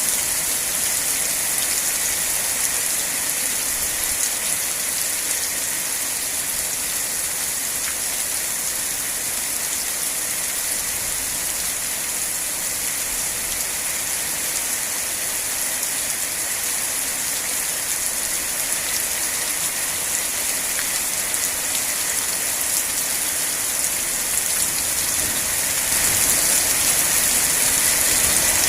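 Steady heavy rain falling and pattering on surfaces, an even hiss that gets a little louder near the end.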